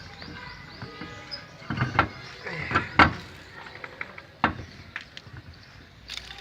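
Metal knocks and clanks of a wheel spanner on a car's wheel nuts as the wheel is tightened, a few separate sharp strikes, the loudest about three seconds in.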